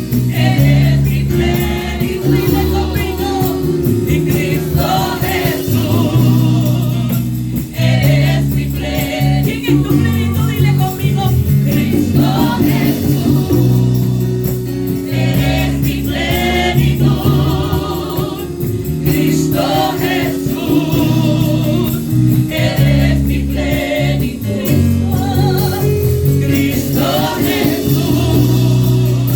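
Christian worship song sung by several voices over band accompaniment, with sustained bass and chords and sung phrases rising and falling.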